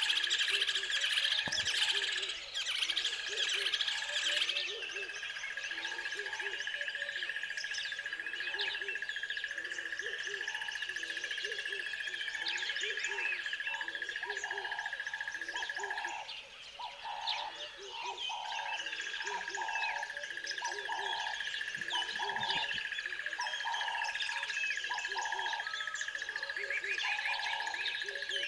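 A chorus of many birds chirping and calling over one another, above a steady high thin drone. A lower call repeats about once a second beneath them.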